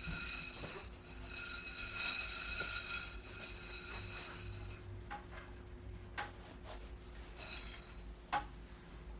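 A few scattered sharp clicks and crunches from crisp air-fried chickpeas, several in the second half.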